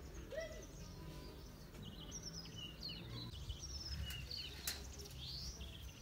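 Birds chirping and twittering in short, quick series of high notes at varying pitches, some rising, over a low steady background rumble. A single sharp click comes about three-quarters of the way through.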